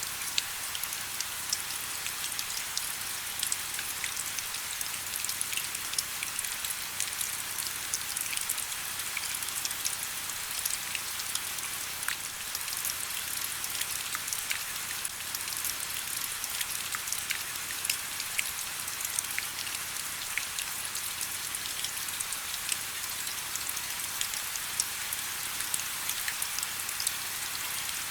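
Steady rain: an even hiss with many individual drops ticking sharply throughout.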